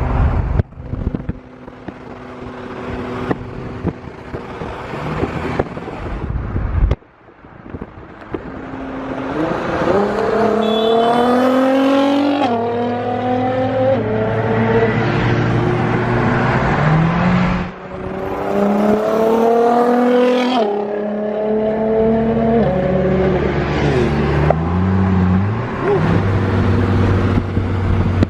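Performance car engines accelerating hard, the pitch climbing steeply and dropping back at each upshift, in several runs after a stretch of steadier engine running.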